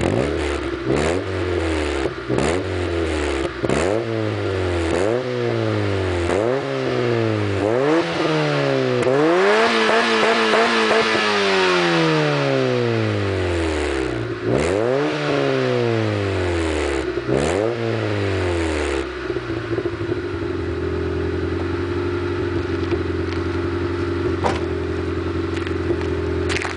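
Honda Civic's D15B2 1.5-litre 16-valve four-cylinder engine through a Remus exhaust, revved repeatedly in quick blips that each drop back, with one longer rev held higher about a third of the way in. After a few more blips it settles to a steady idle for the last several seconds.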